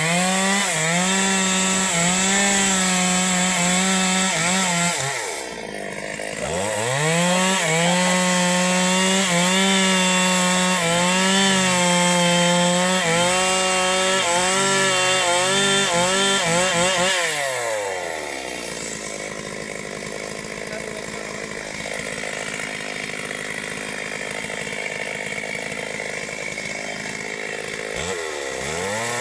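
Two-stroke chainsaw cutting a tree: the engine revs up to full speed, drops briefly to idle about five seconds in, then revs again with its pitch dipping and recovering as the chain bites into the wood. It falls back to a low idle for about ten seconds, then revs up again near the end.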